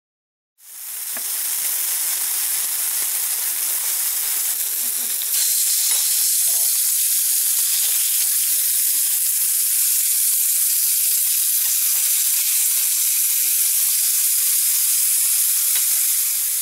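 Meat patties sizzling as they fry on a hot flat griddle, a metal spatula turning them. The sizzle starts suddenly about half a second in and grows louder about five seconds in.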